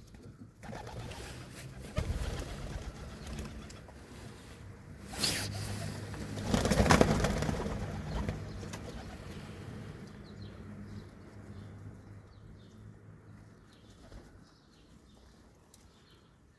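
Domestic pigeons cooing in low, drawn-out coos, with a few louder noisy bursts about two, five and seven seconds in, the one near seven seconds the loudest. It all fades toward the end.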